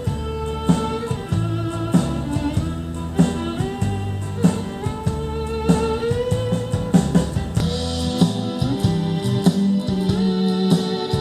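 Instrumental passage of a rock song: guitars and a gliding lead melody over a drum kit, with drum hits on a steady beat that grows busier near the end.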